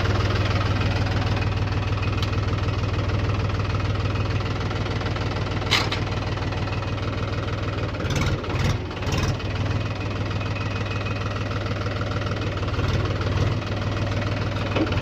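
Mahindra tractor's diesel engine idling steadily with an even, rapid low knock, with a few short rattles around the middle.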